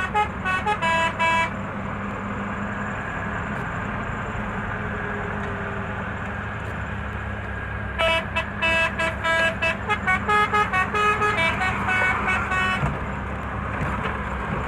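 Musical truck horn played note by note as a melody: short toots at changing pitches over the steady running of the truck's engine. The horn stops for about six seconds, leaving only the engine, then the melody resumes for several seconds more.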